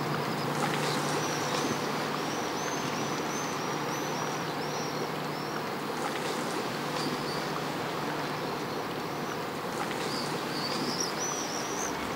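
Outdoor ambience: a steady hiss with a small bird chirping in quick runs of short high calls, a couple of seconds in and again near the end.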